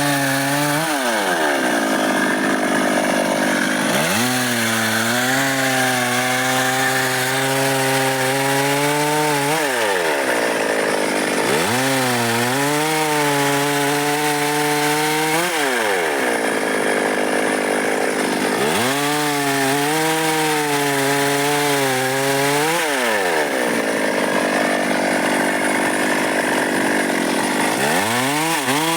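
Stihl MS 382 two-stroke chainsaw cutting dry wood. The engine holds a steady pitch for a few seconds, then falls and climbs again, over and over, about every six seconds as it works through successive cuts.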